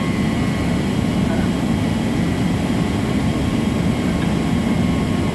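Steady low drone of running machinery, with faint steady high whines above it and no change throughout.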